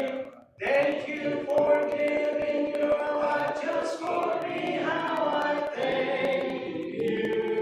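Congregation singing a hymn a cappella in several voices, unaccompanied by instruments, with a brief break for breath about half a second in.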